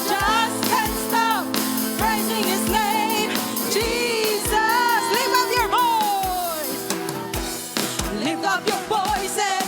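Live worship music: singing voices over a band with sustained instrument tones and a steady drum beat, about one low beat every three-quarters of a second.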